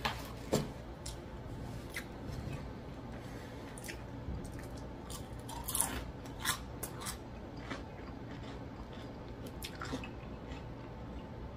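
A person chewing food close to the microphone, with scattered crunches and mouth clicks, a cluster of them around the middle.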